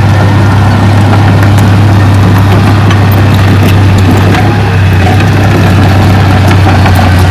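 Heavy diesel engine of an earthmoving machine running steadily at constant speed, with a deep steady hum and scattered light clicks and rattles.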